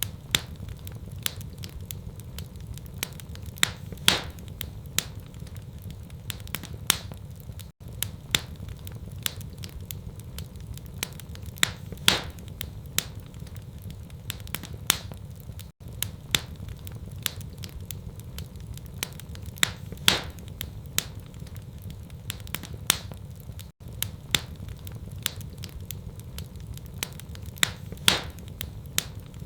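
Wood fire crackling in a fireplace: irregular sharp pops and snaps over a steady low rumble. The recording is a loop: a brief dropout comes every eight seconds and the same pattern of pops repeats.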